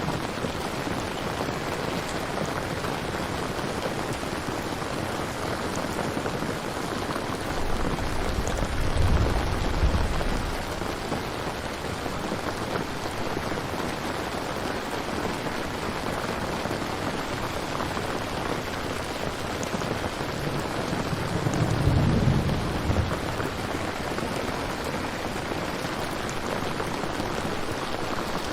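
Steady rain, with two low rolls of thunder: one about a third of the way in, the other about three quarters through.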